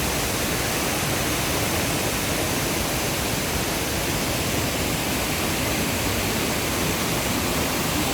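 Shypit waterfall: falling water making a steady, even rush with no breaks.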